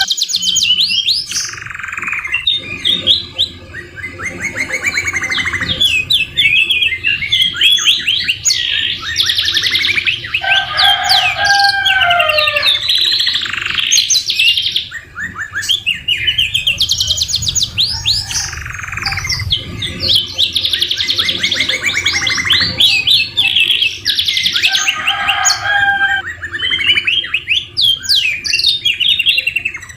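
Domestic canary singing continuously in long fast trills and rapid runs of repeated notes, a song said to be filled with murai batu (white-rumped shama) phrases. The song breaks off briefly a few times.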